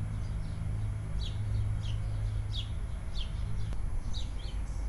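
A bird calling outdoors: short, high, falling chirps repeated roughly every two-thirds of a second. Under them runs a steady low hum that fades about three and a half seconds in.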